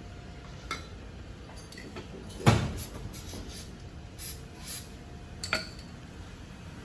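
Metal tools and parts being handled during hands-on car repair work, giving a few clinks and one loud clank with a brief ring about two and a half seconds in.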